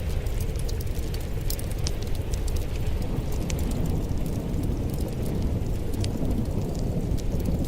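Wood fire crackling in a fireplace: a steady low rumble of flame with scattered sharp pops and snaps throughout.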